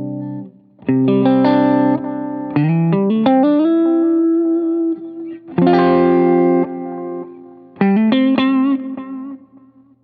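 Fender Stratocaster electric guitar played through a Boo analog delay pedal and a Line 6 HX Stomp amp model: a held chord, then struck chords and short phrases with slides and bends, dying away near the end.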